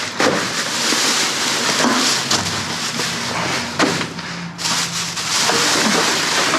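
Rummaging through bagged food: plastic bags and packaging rustling and crinkling, with scattered light knocks as items are handled.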